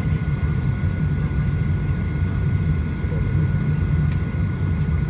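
Steady low drone inside the cabin of a Boeing 737-900ER airliner, with a faint steady high-pitched tone over it. A faint click comes about four seconds in.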